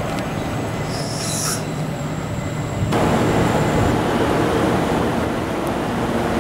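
Train noise at a station platform: a steady low hum, a brief high-pitched hiss about a second in, and a louder, broad rush of noise from about three seconds on.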